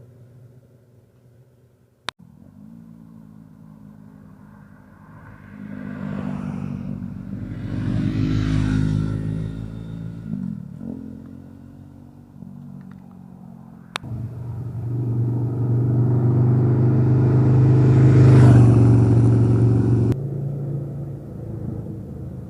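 Motorcycles riding past one after another, the engines rising in level as each approaches and fading as it goes, with the loudest passes about a third of the way in and again near the end. The sound jumps abruptly with a click a few times.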